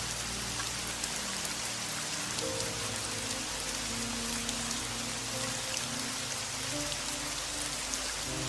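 Steady rain falling, a dense even patter of drops, with soft, slow music of held low notes underneath.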